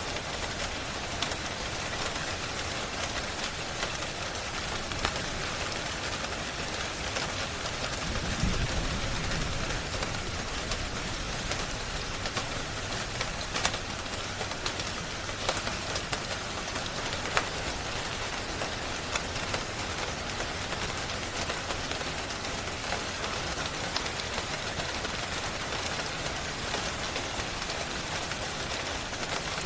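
Steady rain falling, a dense even hiss, with scattered sharp pops of a crackling fire throughout. A brief low rumble swells up about eight seconds in.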